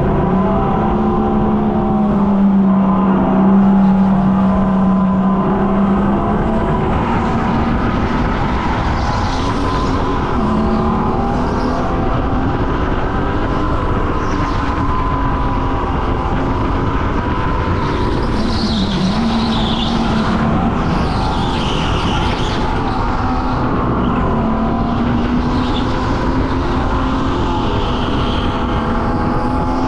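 Racing go-kart engine running hard through a lap, its pitch dipping when it slows for corners and climbing again on the straights. Short tyre squeals come through the corners about two-thirds of the way in.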